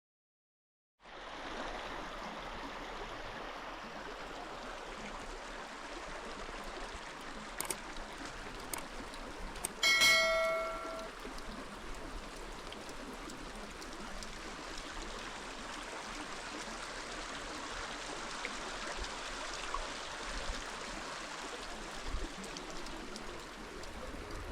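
Steady rain falling, starting about a second in. About ten seconds in, one metallic ringing strike, like a bell, rings for about a second over the rain.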